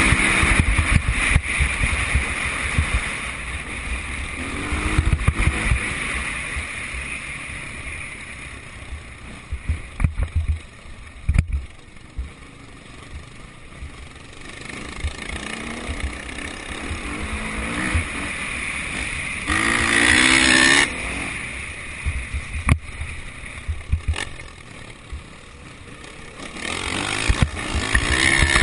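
Motocross motorcycles revving and passing on the track, engine pitch rising and falling with each pass; the loudest goes by about twenty seconds in. Wind buffets the microphone throughout.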